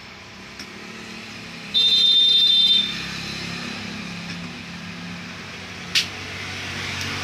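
A high electronic beep lasting about a second, from a multimeter's continuity test on the TV's power supply section, which reads as shorted. A sharp click comes about six seconds in.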